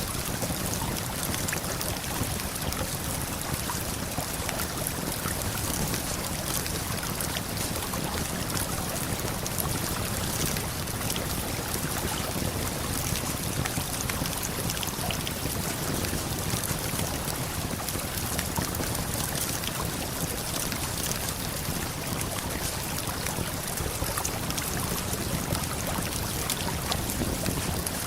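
Steady rushing of a waterfall and flowing river current, with faint scattered crackles of a campfire over it.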